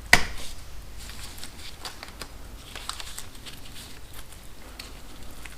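One sharp click just after the start, then scattered light clicks and rustling from hands handling small parts and wiring.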